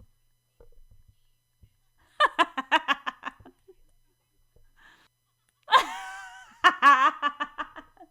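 A woman laughing in two separate bursts. The first, about two seconds in, is a quick run of short "ha" pulses. The second, near the end, starts on a high note that swoops down and breaks into a fast run of pulses.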